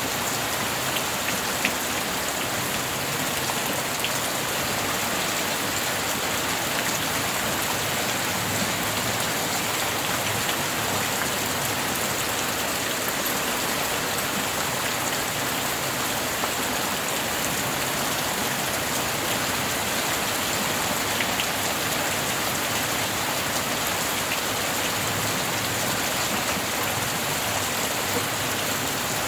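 Steady rain falling: an even, unbroken hiss with scattered small drop ticks and no thunder.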